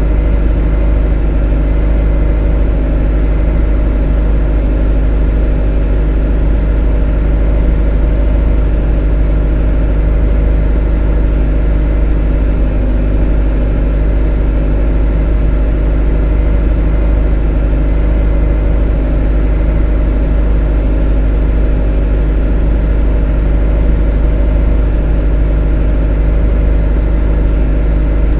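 A motor running steadily, an even low hum with a stack of steady tones above it and no change in speed.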